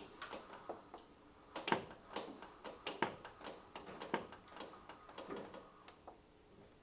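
Scattered light clicks and knocks at an irregular pace, a few a second, the loudest a little under two seconds in.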